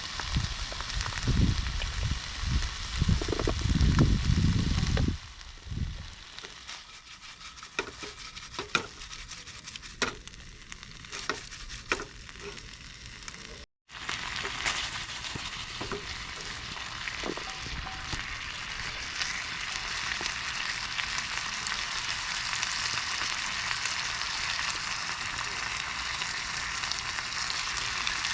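Food sizzling and crackling as it cooks over heat. Low rumbling noise covers the first few seconds, then single crackles pop over a faint hiss. After a cut about halfway through, it settles into a steady sizzle.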